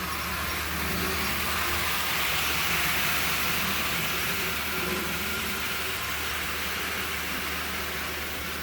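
Toy Thomas the Tank Engine model train running on its track: a steady motor whir and wheel noise on the rails, swelling a little louder about two to three seconds in as it comes closer.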